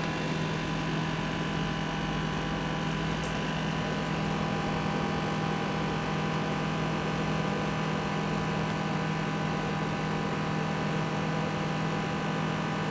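Silvercrest SMW 800 C3 microwave oven running, heating a half cup of water: a steady hum from its transformer, magnetron and cooling fan. The oven is working again after its contacts were cleaned.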